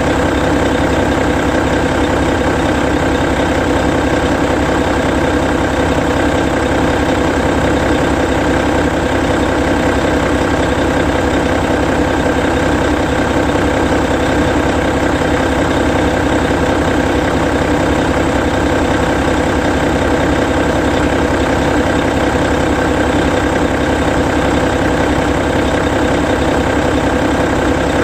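Hino Selega tour bus's E13C 12.9-litre inline-six diesel idling steadily while the bus stands parked.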